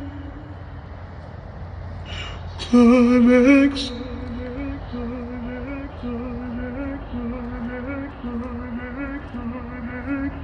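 An a cappella vocal track played through a car audio system's 8-inch midrange speakers and horn tweeters. The word "climax" is sung loudly about three seconds in, then background voices hold notes that step up and down, over a low steady rumble.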